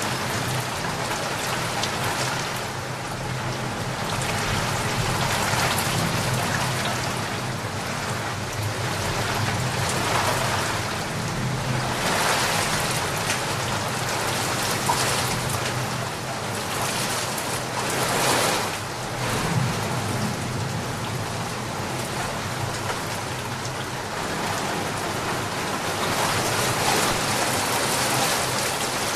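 Steady, heavy rain falling on a surface, swelling and easing in strength, with louder gusts about twelve and eighteen seconds in.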